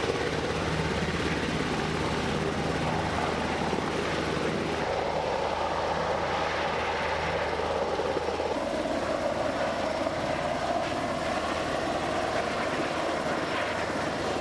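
Coast Guard MH-60T Jayhawk helicopter flying, a steady rotor and turbine drone whose low hum changes tone about eight seconds in.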